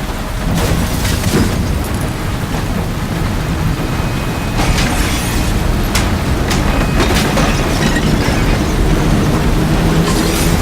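Tornado wind making a loud, continuous low rumble, with several sudden crashes of debris about one, five, six, seven and ten seconds in.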